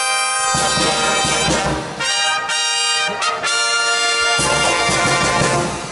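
Brass band playing, trumpets and trombones carrying the tune; the low brass comes in about half a second in and again a little past four seconds.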